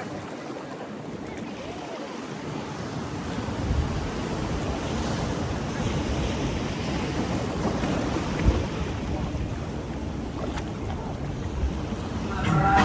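Surf washing onto a beach, with wind rumbling on the microphone.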